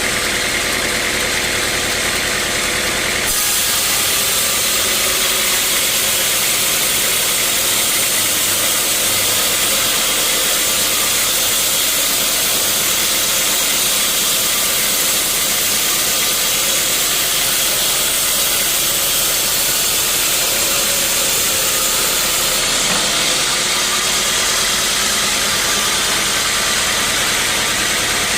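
Sawmill saw running steadily while cutting a teak log. A louder high hiss starts suddenly about three seconds in and stops about six seconds before the end, as the blade passes through the wood.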